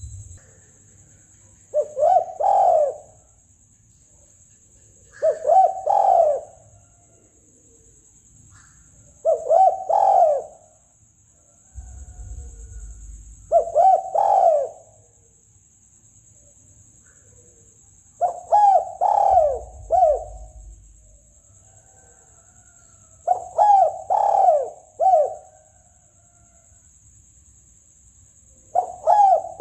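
Spotted dove cooing: seven phrases of several coo notes each, one every four to five seconds. A steady faint high hiss runs underneath.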